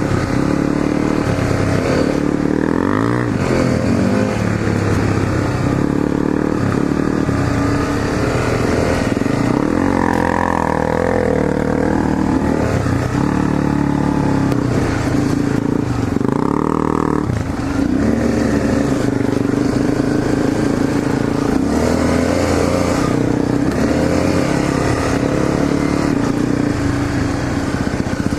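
Honda CRF250L's single-cylinder four-stroke engine running under way, its pitch rising and falling as the rider works the throttle and shifts gears.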